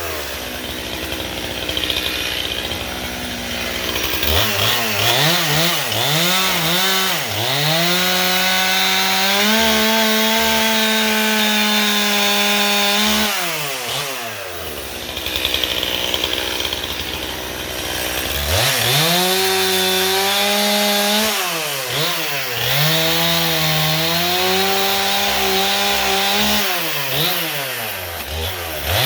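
Gas chainsaw cutting firewood logs: the engine is revved up and held at high speed through two long cuts, dropping back toward idle between them, its pitch rising and falling as the throttle is worked.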